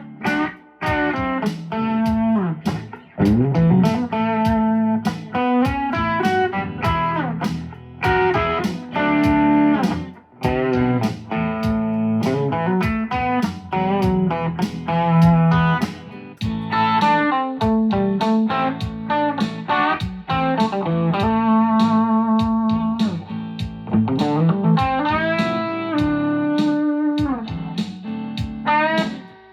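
Clean electric guitar from a Stratocaster, played through a Fender amp with a Dynacomp compressor and a Timmy overdrive pedal. Melodic lines with bent notes run over a looped drum and backing track that keeps a steady beat.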